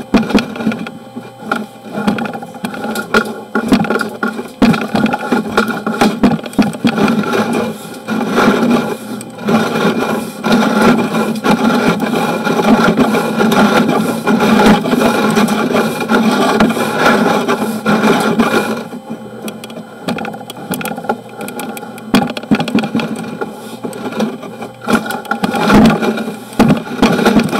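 Sewer inspection camera's push cable being fed down a drain line, rattling and scraping as it goes.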